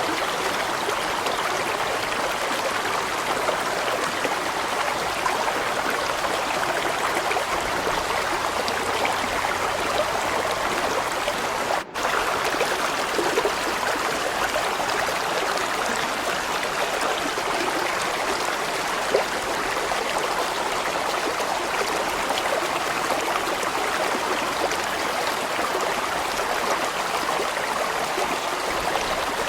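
A large stream flowing steadily: a continuous rush of running water, with a momentary break about twelve seconds in.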